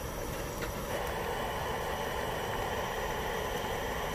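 Steady hissing of a wok of ramyeon boiling on a portable gas burner, a little louder from about a second in, with a couple of faint clicks near the start.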